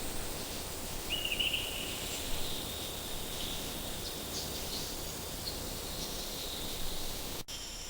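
Faint outdoor nature ambience: a steady high-pitched hiss with a few short bird-like chirps, the clearest about a second in. The sound cuts out briefly near the end.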